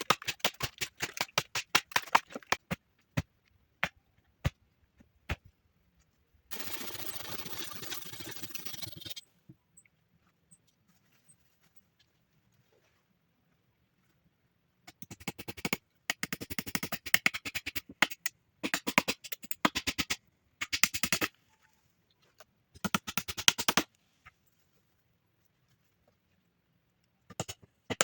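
Bursts of rapid sharp clicks or taps, several a second, in runs of a second or two with quiet gaps between. A steady even noise, like hissing or rasping, lasts about two and a half seconds a quarter of the way in.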